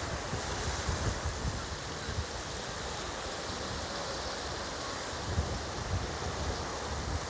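Surf washing on the beach, with wind buffeting the microphone in irregular low rumbles.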